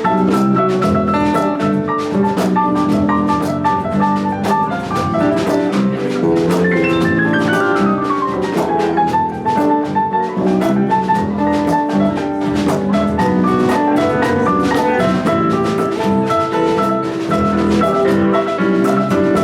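A live band playing an instrumental passage over a fast, steady drum-kit beat. About seven seconds in, a high note slides down in pitch.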